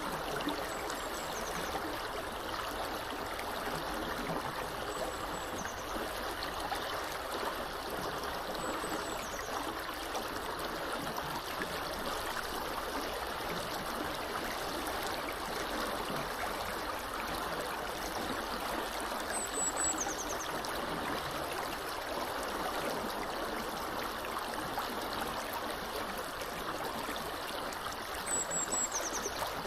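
A small river flowing steadily, a continuous rushing babble of water. A bird gives brief, high, falling chirps about five times.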